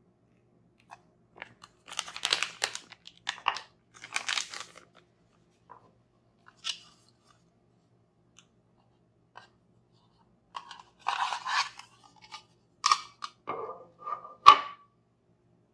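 Toy packaging being handled and torn open: short bursts of crinkling and crunching with pauses between them, and a sharp click near the end.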